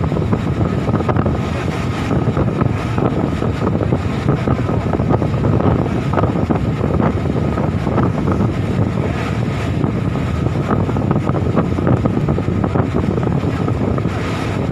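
Boat engine running steadily at sea, with wind buffeting the microphone.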